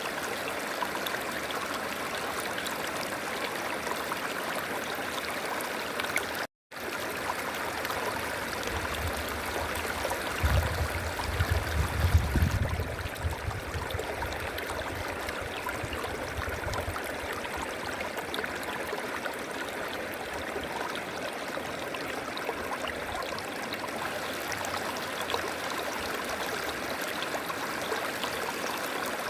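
River water flowing steadily as a continuous rushing. The sound cuts out completely for a split second about six seconds in. A low rumble swells in about ten seconds in, is loudest a couple of seconds later, and fades out several seconds after that.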